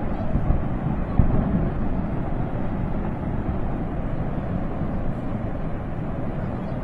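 Steady low rumbling roar of a flash flood or landslide debris flow rushing past.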